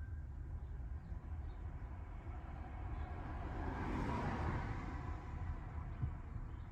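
A vehicle driving past, swelling to its loudest about four seconds in and then fading, over a steady low rumble.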